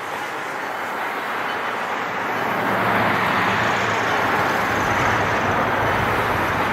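Steady rushing vehicle noise that grows louder over the first three seconds and then holds, with a low hum joining about halfway in.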